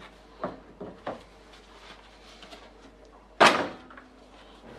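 Three light knocks in the first second or so, then one loud bang about three and a half seconds in with a short ringing tail, like a door or panel being shut.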